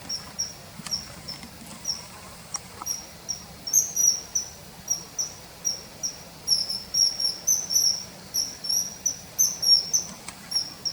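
Common kingfisher calling: a run of short, high-pitched piping notes, two or three a second, growing louder and more crowded, with some notes in quick pairs, after about four seconds.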